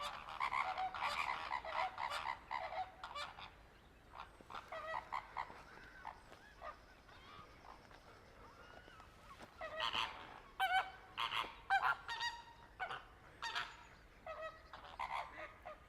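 A flock of flamingos calling: many short, overlapping honking calls. They are busiest in the first few seconds and again from about ten seconds in, with a thinner stretch between.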